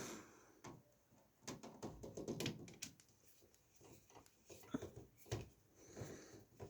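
Scattered light clicks, knocks and rustling from computer parts being handled and fitted during PC assembly, with busier stretches about a second and a half in and again near the end.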